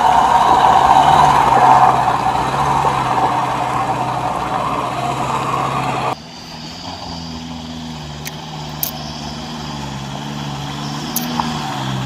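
Pickup truck engine running hard under load on a slippery hill climb. About six seconds in it cuts off suddenly to a quieter, steady engine hum with a few clicks.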